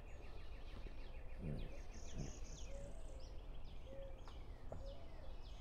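Faint outdoor bird song: a fast repeated trill through the first half and several short downward-sliding chirps, over a steady low background hum.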